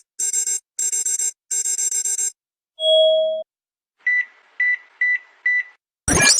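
Electronic beep sound effects: a rapid run of pulsing, bright beeps for about two seconds, then one longer lower beep, then four short high beeps about half a second apart. A loud falling synth sweep starts at the very end.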